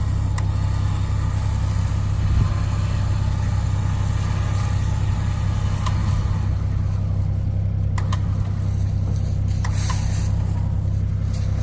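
Engine idling steadily with a deep hum, with a few sharp metallic clinks over it, the louder ones about 6 and 8 seconds in.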